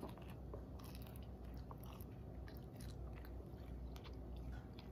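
A person biting into an everything bagel with cream cheese and chewing it close up: faint, irregular little crunches and mouth clicks.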